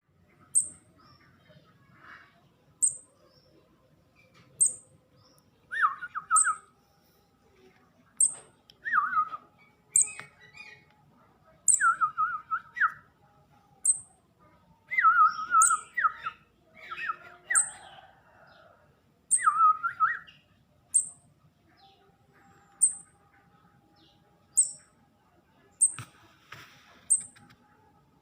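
Kemade chick still on hand-feeding, calling: a short, sharp, high chirp repeats about every two seconds, with louder, lower, rasping calls in groups through the middle, typical of a nestling begging to be fed.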